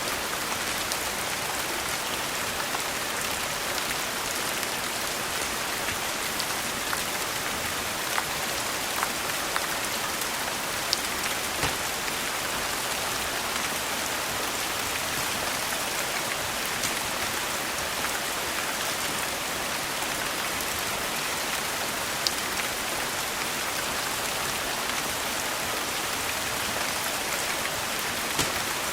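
Steady rain hiss with a handful of sharp pops and crackles from a wood fire in a fireplace.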